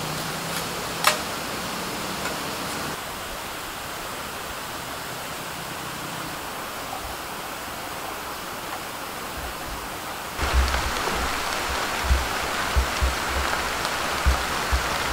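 Steady rain falling in forest, growing suddenly heavier about ten seconds in, with scattered dull thumps from then on. Two sharp knocks sound in the first second or so.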